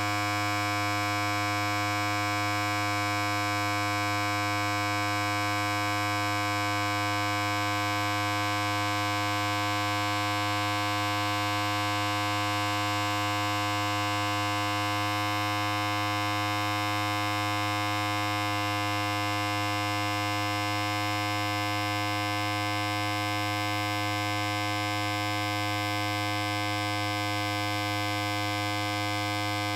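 Electric hair clipper running continuously, a steady buzz with a strong low hum.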